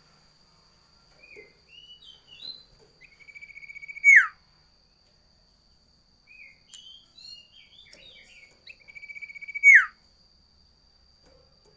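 Sirtu (cipoh) songbird singing two similar phrases. Each is a run of short, rising chirps, then a held whistle ending in a loud, sharp downward slur, about four seconds in and again near ten seconds.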